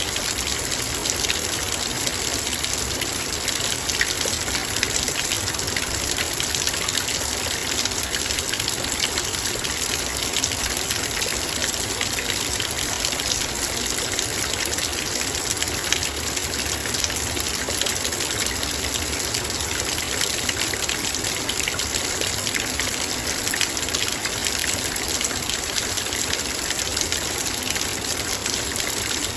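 Heavy rain pattering steadily on a metal bowl, a dense even hiss of many small drop ticks with no letup.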